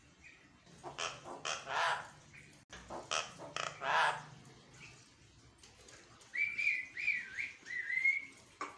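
Javan myna calling: two bouts of harsh, rasping squawks, then a run of wavering whistled notes near the end.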